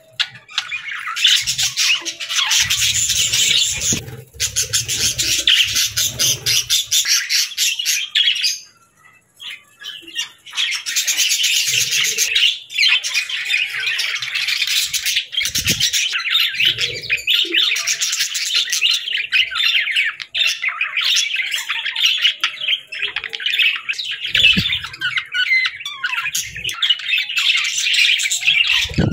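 Several budgerigars (pet parakeets) chattering and chirping in a dense, continuous stream of quick warbles and squawks, with a short lull about nine seconds in.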